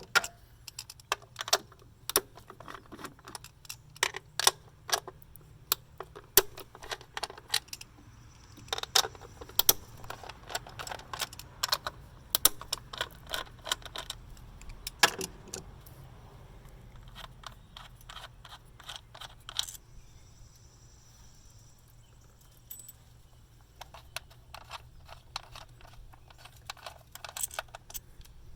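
Socket ratchet clicking in quick runs with small metallic clinks as 10 mm bolts are backed out of a bracket on a Mazda Skyactiv 2.0 engine. There is a quieter gap in the middle before the clicking starts again near the end.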